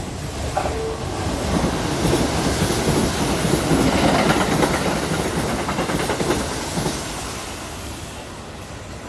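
Kintetsu Urban Liner electric limited express train passing through a station, its wheels clattering rhythmically over the rail joints. The sound builds as the train comes alongside, is loudest about halfway through, then fades as it runs away down the line.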